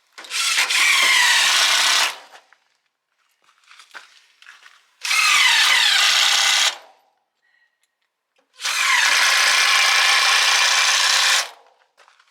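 Cordless power drill run three times in bursts of about two, one and a half, and three seconds, its motor pitch sagging under load as it bites into wood.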